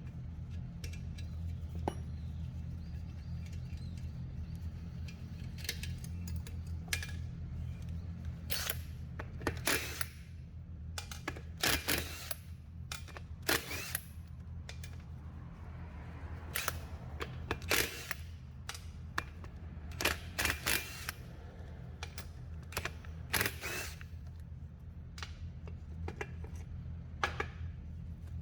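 Metal tools and parts clinking and clicking against each other in irregular sharp taps, over a steady low hum.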